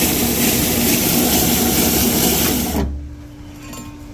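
Belt sander grinding the flange face of a Ford 5.4 cast-iron exhaust manifold flat, a loud steady rasp. It stops about three seconds in, leaving the sander's motor humming.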